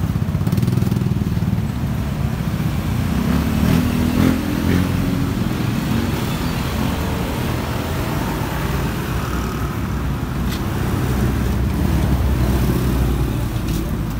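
Motor vehicle engine running steadily with a low rumble, swelling slightly now and then.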